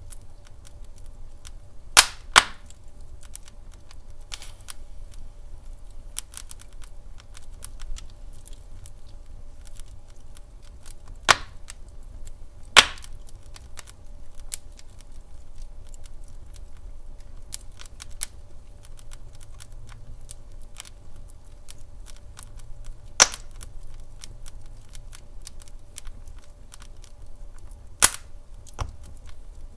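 Wood fire in a fireplace crackling, with many faint small ticks over a low rumble. Sharp loud pops from the burning logs come as a close pair about two seconds in, then singly four more times.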